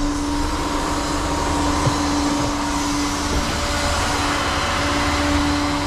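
Tow truck engine idling: a steady hum with a constant droning tone and a broad rushing noise.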